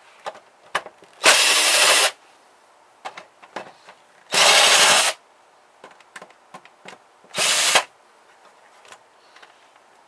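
Power drill-driver running in three short bursts, each under a second, backing screws out of a small printer's casing, with light clicks and taps of handling between bursts.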